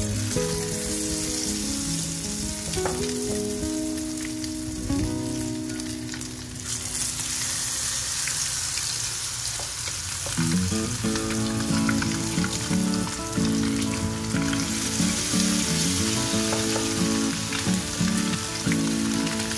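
Battered anchovy fritters deep-frying in hot oil in a small pan: a steady sizzle that swells about a third of the way in and again later as more clumps of batter go into the oil. Background music plays underneath.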